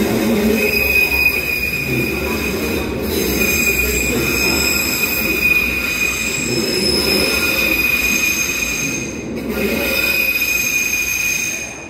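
Merseyrail Class 777 electric train pulling into an underground station platform and slowing to a stop, a steady high-pitched squeal over a low rumble. The sound falls away suddenly near the end as the train halts.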